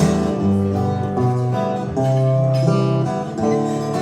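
Acoustic guitar strumming held chords, with the chord changing about every second, between sung lines of a live song; no singing.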